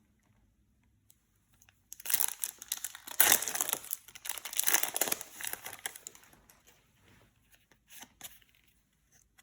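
Foil-and-plastic packaging of a Yu-Gi-Oh card box crinkling as it is handled, starting about two seconds in and lasting around four seconds, with a couple of light clicks near the end.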